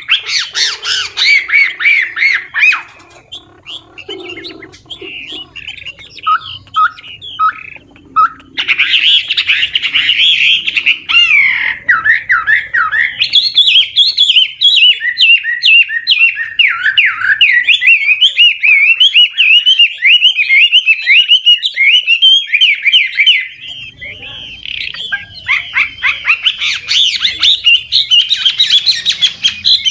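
An old wild-caught Chinese hwamei singing a long song of rapid, constantly changing whistled phrases. After a few seconds of only scattered soft notes, the song picks up about 8 seconds in and runs almost without a break, easing briefly near the end before resuming.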